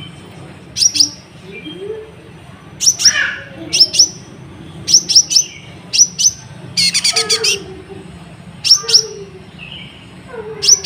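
Kolibri ninja (sunbird) singing loudly in sharp, high chirps that come in pairs and triplets, with a fast rattling run of notes about seven seconds in.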